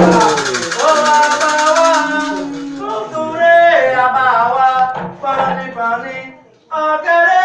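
Candomblé chant for Xangô, sung voices with a rattle shaking through the first two seconds, then the singing going on alone, with a short break near the end before it resumes.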